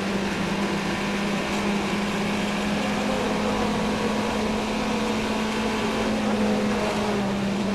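Steady mechanical drone at a constant pitch over a hiss, like race car engines heard through a trackside broadcast, with no change in revs and no impacts.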